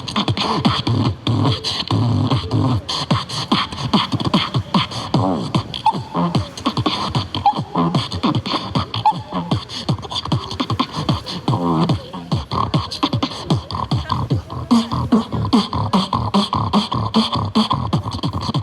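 A person beatboxing: a fast, unbroken stream of vocal drum sounds with pitched hums and sweeping tones woven between them.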